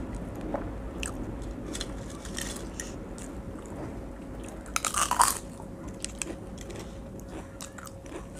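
Eating sounds: quiet chewing and small clicks, then a loud, crisp crunch about five seconds in as a piece of fried papad (poppadom) is bitten, followed by a few lighter crunches. A faint steady hum runs underneath.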